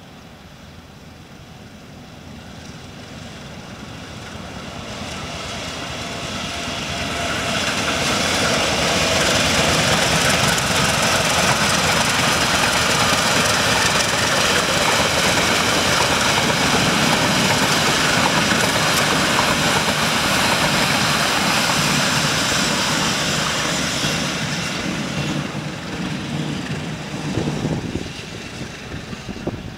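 Passenger train hauled by a CC201 diesel-electric locomotive running past: engine and running gear grow steadily louder over the first eight seconds, stay loud as the coaches go by, then fade over the last few seconds as the train moves away.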